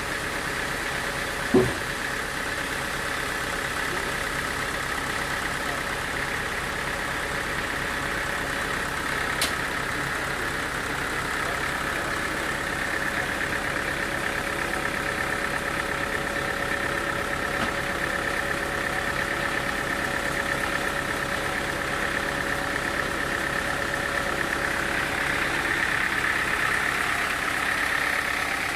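Sawmill machinery running steadily, a continuous engine-like hum that swells slightly near the end. A single knock comes about a second and a half in, and a sharp click comes near the ten-second mark.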